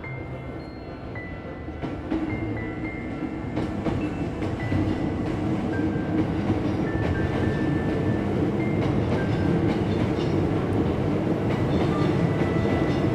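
Hankyu electric train approaching and passing over a level crossing, its running noise growing louder over the first four or five seconds and then holding steady. The crossing's warning bell rings over it as short high tones.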